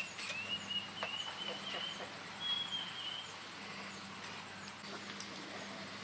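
Forest insects chirring steadily with a thin, high whine, over which a bird gives a wavering whistled call in several short phrases through the first three seconds or so. A few faint clicks.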